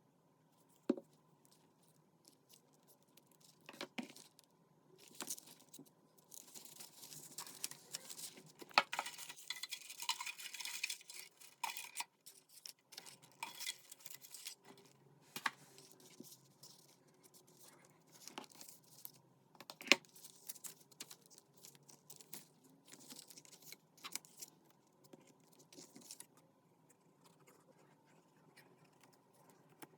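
Paper craft handling: a stretch of paper rustling and tearing about six to twelve seconds in, with scattered light taps and clicks of paper and tools on a desk.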